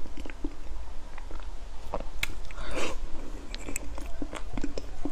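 Close-up chewing and wet mouth sounds of someone eating soft chocolate mousse cake, with many small lip smacks and clicks, picked up by a clip-on microphone.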